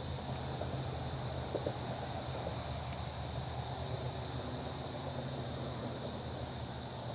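Small fire of dry leaves and twigs crackling, with a few faint pops, over a steady high chorus of insects.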